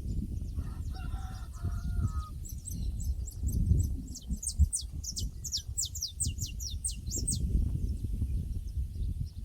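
Pasture ambience: a domestic fowl gives a short pulsed call early on, then a small bird sings a rapid run of high chirps for about five seconds, over a steady low rumbling noise.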